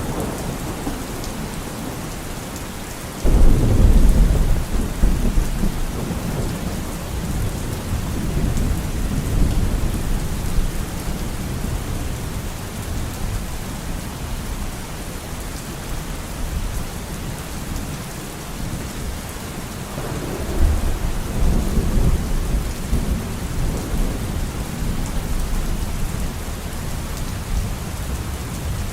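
Steady rain falling, with thunder: a sudden loud rumble of thunder breaks about three seconds in and rolls away over several seconds, and a second rumble comes about two-thirds of the way through.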